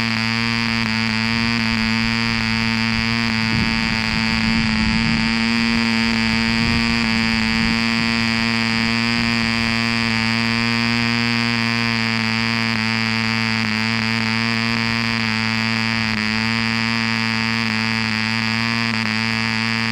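Mills 0.75 cc model diesel engine, Indian-built by Aurora, running flat out with an 8x4 propeller, a steady buzz that holds an even pitch.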